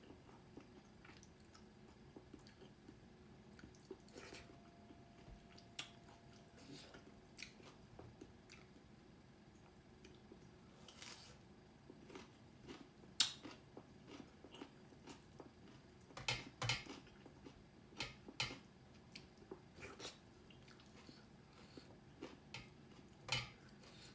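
Chewing and mouth sounds of a person eating, with scattered short wet smacks and clicks, a few louder ones in the second half.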